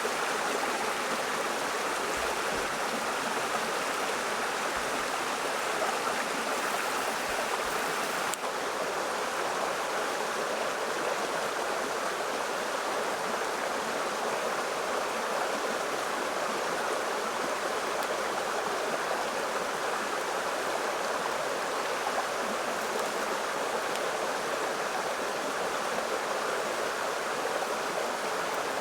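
Running water from a stream, a steady, even rush with no breaks.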